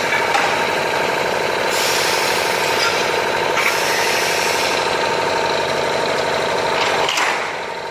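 Double-head aluminium cutting saw running: a steady motor hum under a hiss that comes and goes, with a short burst of noise near the end as the level drops.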